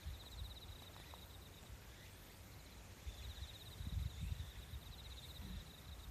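Outdoor nature ambience: a high, rapidly pulsing insect trill that swells about halfway through, over a low, uneven rumble of wind.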